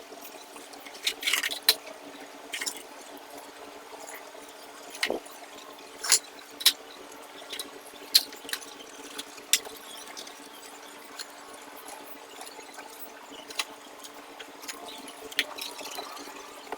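Irregular sharp clicks and taps, about fifteen of them at uneven spacing, over a steady low hum.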